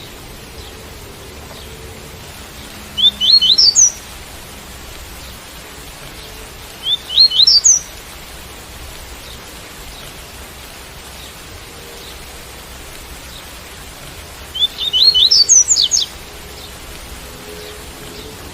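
Double-collared seedeater (coleiro) singing the tui-tui song: three short phrases of quick rising notes, the last one longer, over a steady hiss of rain.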